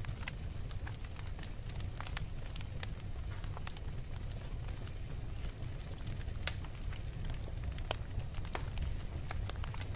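Wood fire burning in a fireplace: a steady low rumble of flames with irregular sharp crackles and pops from the logs, one louder pop about six and a half seconds in.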